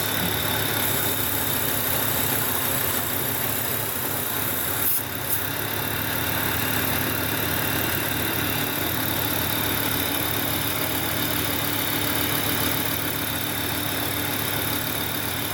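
Volvo 850 T5's turbocharged 2.3-litre inline-five idling steadily, heard up close in the engine bay. Its vacuum hose leaks are now fixed, and the idle is near normal with a slight nervous unevenness.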